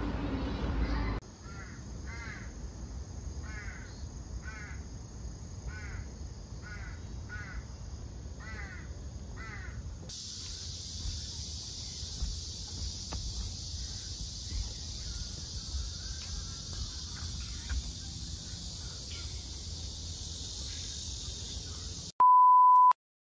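A bird calling repeatedly, about nine short calls a second or so apart, over a steady high-pitched hiss of outdoor ambience. Near the end a loud steady beep at one pitch sounds for under a second and cuts off into silence.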